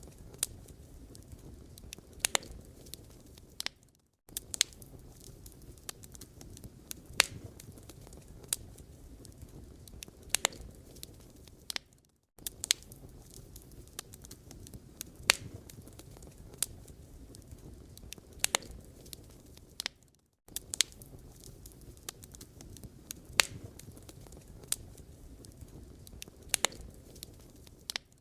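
Wood fire burning in a fireplace, crackling and popping irregularly over a low rumble of flames. The sound cuts out briefly about every eight seconds.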